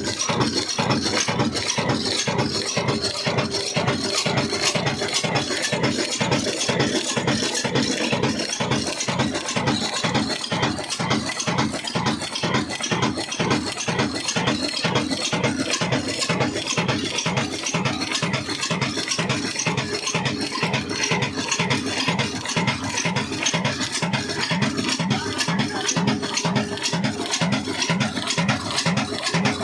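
Old Ruston diesel engine running steadily, its exhaust beating evenly about five times a second.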